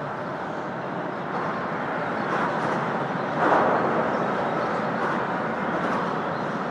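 Interstate traffic rumbling on the bridge overhead, a steady wash of tyre and engine noise that swells about halfway through as heavier traffic passes.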